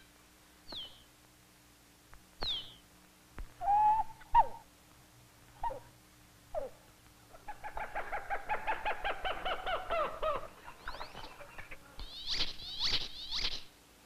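Birds calling: a string of separate short calls, some of them sharp falling whistles, with a long fast series of notes about halfway through and more high calls near the end.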